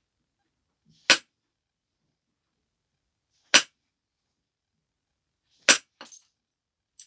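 Percussion flaking on a stone biface: three sharp cracks of strikes on its edge, about two to two and a half seconds apart, the third followed by small clinks and a faint tick near the end.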